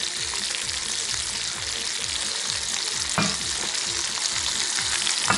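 Herring and vegetables sizzling steadily in a frying pan as fried carrot and onion are scraped onto them with a silicone spatula, with a single knock about three seconds in.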